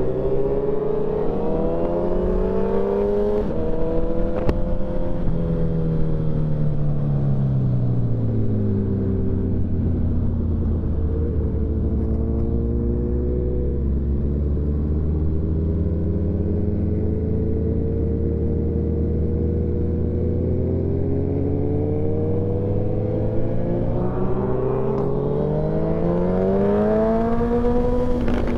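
Sport motorcycle engine running on the move: its pitch sinks over several seconds, holds steady for a long stretch, then climbs again near the end as the revs rise.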